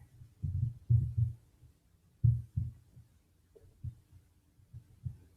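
Soft, low thumps at an uneven pace, about one to two a second, with quiet gaps between.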